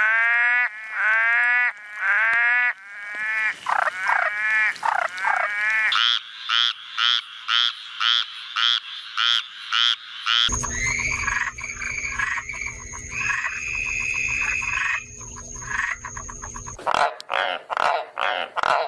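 Frogs croaking in a string of different recordings. First come short calls that rise and fall in pitch, about two a second. Then there is an even pulsing call, and from about ten seconds in a dense chorus over a low steady rumble, giving way near the end to quicker calls.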